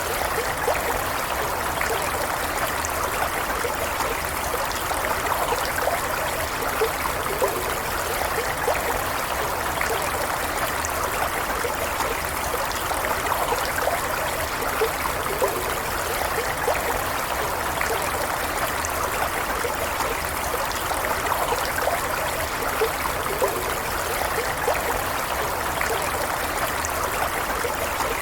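Small stream flowing steadily, water babbling and trickling over stones.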